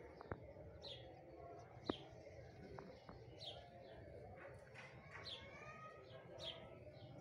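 Faint birds chirping: short high calls that fall in pitch, repeated about once or twice a second, with a few sharp clicks, the loudest about two seconds in.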